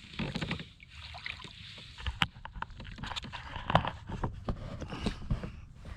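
Kayak on the water: paddle and water sloshing and splashing, with scattered sharp knocks and clicks.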